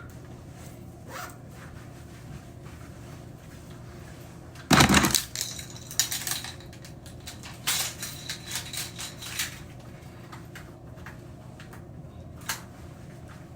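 Small objects being handled: a loud clatter about five seconds in, then scattered light clicks and knocks, over a steady low hum.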